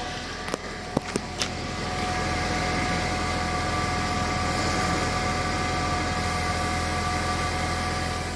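Stock Ford Mondeo engine idling steadily soon after a cold start, the car having sat undriven for a long time. A few sharp clicks come in about a second in.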